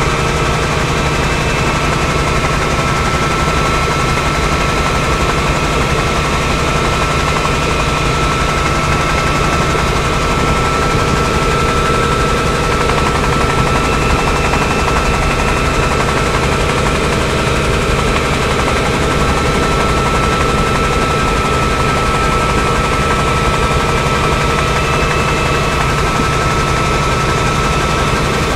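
Helicopter in flight, heard from on board: a steady, rapid rotor chop under a constant high whine, unchanging throughout.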